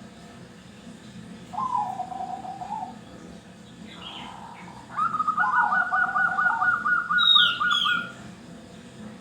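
Zebra doves (perkutut) cooing: one warbling coo phrase about a second and a half in, then from about five seconds a fast run of repeated notes overlapping a second coo phrase, two birds calling together. A pair of high, falling chirps from another bird comes near the end.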